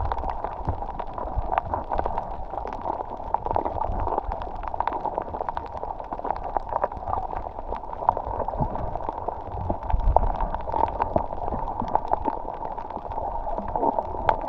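Water gurgling and sloshing, with many small clicks and a low rumble throughout.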